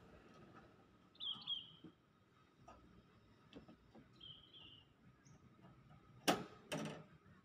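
A small bird giving a few short falling chirps, then two loud sharp knocks about half a second apart near the end.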